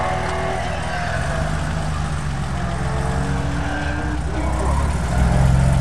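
A car's engine running as it drives through a cone course, heard from some distance, its note shifting with the throttle and rising in pitch around three to four seconds in.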